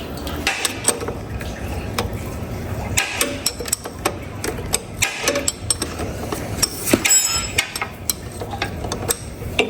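Irregular metallic clicks, clinks and knocks of hand tools and metal parts being handled during repair work.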